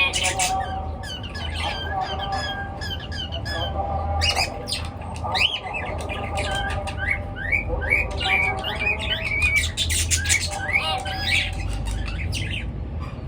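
A group of pet birds chirping and squawking, many short rising calls overlapping, busiest in the second half, over a steady low hum.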